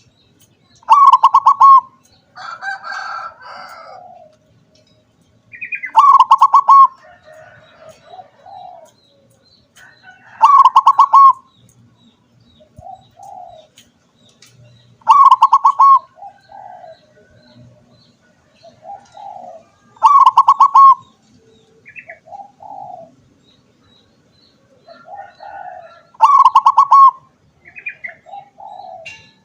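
Zebra dove (perkutut, a local–Bangkok crossbreed) singing: six loud, rapidly rolling coos about every five seconds, each followed by softer, lower coo notes, with a few short chirps in between.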